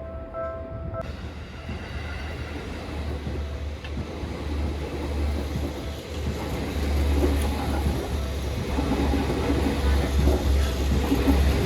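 Seibu Shinjuku Line electric train running past a level crossing: a low rumble of wheels on rails that builds and grows louder over the last few seconds.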